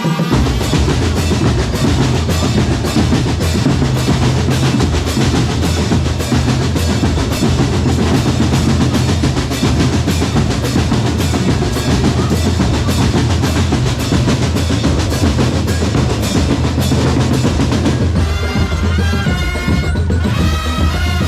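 Marching drum corps percussion playing a fast, dense rhythm of snare rolls over bass drums. About 18 seconds in, a melodic instrument comes in over the drumming.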